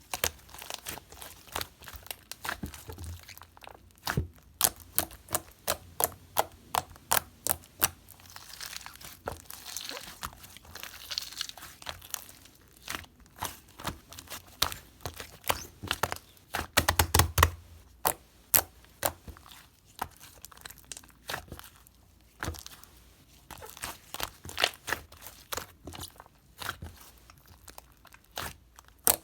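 Green slime being pressed, stretched and poked by hand, making a run of sharp, irregular clicks and pops, with a denser cluster and a low thump about two-thirds of the way through.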